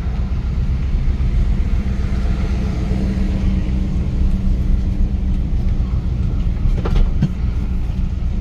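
1977 Dodge D150 pickup's 440 big-block V8 and tyres heard from inside the cab while driving: a steady low rumble of engine and road noise, with a short knock or rattle about seven seconds in.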